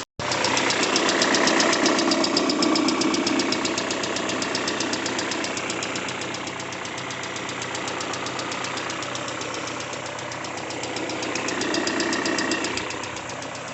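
Peugeot 406 Coupé engine running with a fast, even knocking, a knock that appeared after a timing belt replacement. It grows louder briefly near the start and again near the end.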